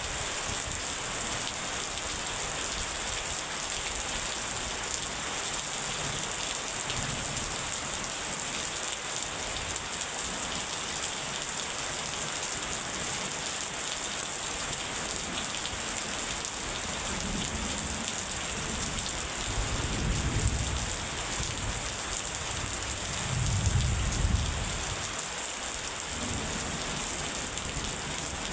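Steady heavy rain falling, with low rolls of thunder rumbling about two-thirds of the way through and again, louder, near the end.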